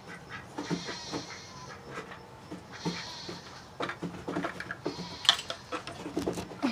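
Farm animals making short, scattered calls, with small clicks and a soft hiss that starts and stops several times.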